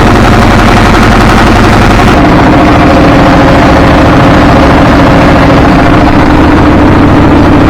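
A motor running steadily at very high, overloaded level, with a fast low pulsing and a steady drone; its note shifts about two seconds in.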